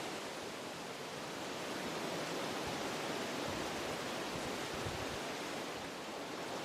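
Wind blowing through forest trees, a steady rushing noise with a couple of brief low rumbles from gusts in the middle.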